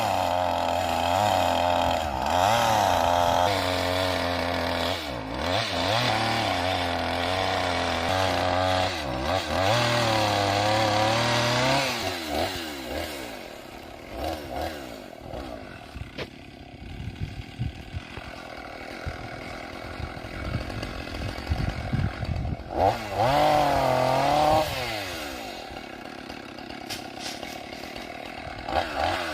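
Two-stroke chainsaw cutting through oak logs for firewood, its pitch wavering under load during the cuts. Between cuts, through the middle stretch, it drops to a quieter, sputtering idle, then bogs into another cut about three-quarters of the way in and revs again near the end.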